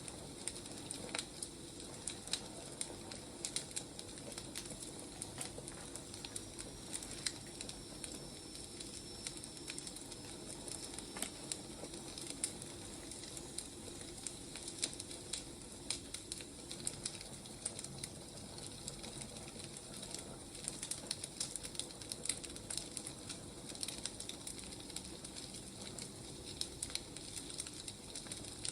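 Wood fire crackling and popping steadily, with irregular sharp snaps over a soft hiss.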